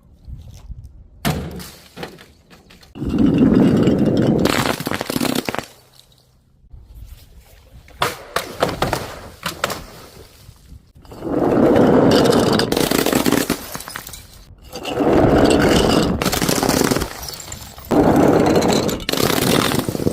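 Glass breaking and crunching, in four loud stretches of about two seconds each, with shorter knocks and crunches between them.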